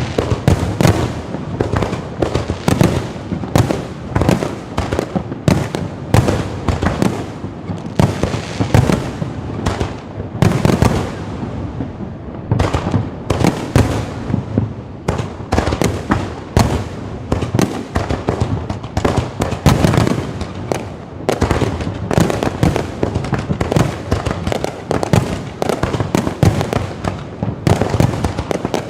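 Fireworks display going off in a dense, continuous barrage: many sharp bangs a second, overlapping, with no let-up.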